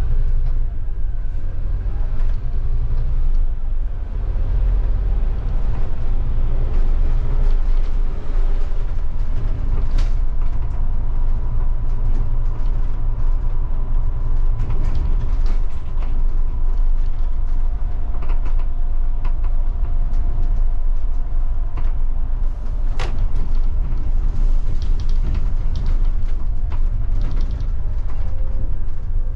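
Scania K250IB bus's five-cylinder diesel engine running under way, heard from inside the bus, with a heavy steady rumble, a thin steady whine, and scattered rattles and clicks from the body and fittings.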